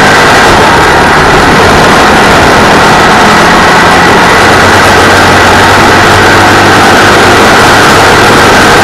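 The 602 cc Citroën flat-twin engine of a dirt-track race car running hard, heard from on board at a fairly steady pitch. The recording is loud and near full scale throughout.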